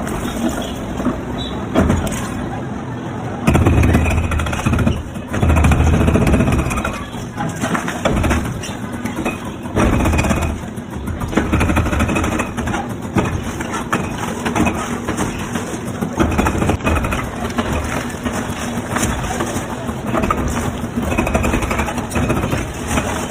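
Engine of heavy demolition machinery running, with loud low surges of revving several seconds in and smaller ones after.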